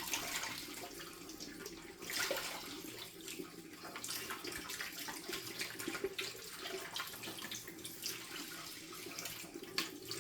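Tap water running and splashing over a plastic washing-machine detergent drawer as it is rinsed out, briefly dipping about two seconds in.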